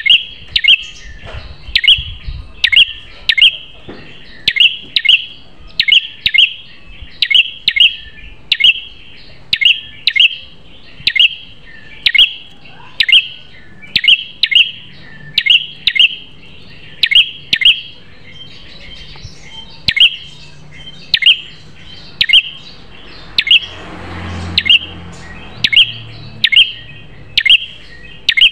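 Prenjak kepala merah (red-headed prenjak) calling: a long run of sharp, high chip notes, often in quick pairs, repeated about every half second to second without a break.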